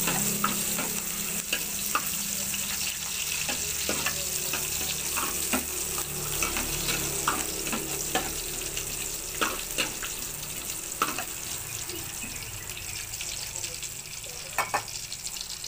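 Sliced garlic sizzling in hot oil in an aluminium wok, with a spatula scraping and clicking against the pan now and then as it is stirred.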